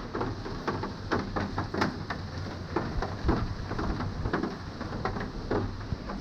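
Heavy rain falling, with many irregular sharp drops striking a hard surface.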